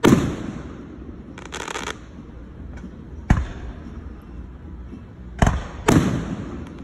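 Aerial firework shells bursting overhead: a loud boom at the start with a long rolling echo, a sharp bang a little over three seconds in, and two more booms close together near the end. A short hiss comes between the first two.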